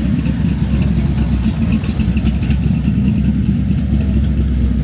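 Classic car's engine idling close by with a loud, steady, low rumble, a purr.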